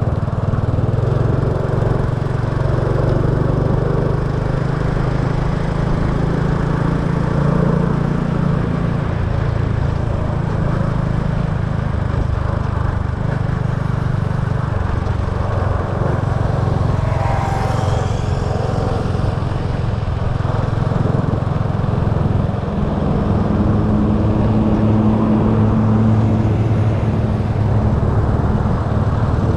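Small motorbike engine running while riding, its pitch stepping up and down with speed, over steady road noise.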